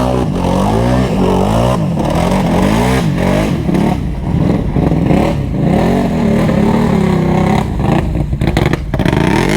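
ATV engine revving hard in a mud hole, its pitch rising and falling again and again as the throttle is worked.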